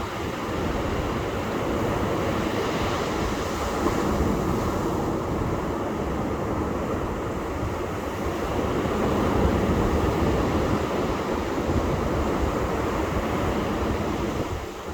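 Ocean surf washing onto a beach, a steady rushing hiss that swells slightly past the middle and eases near the end.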